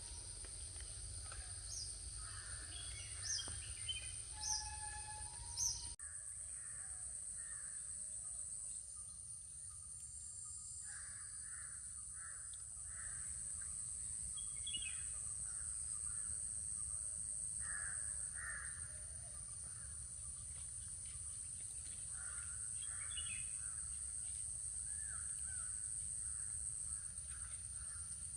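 Crows cawing again and again over a steady high-pitched drone, with other small birds chirping and whistling during the first few seconds. The background changes abruptly about six seconds in.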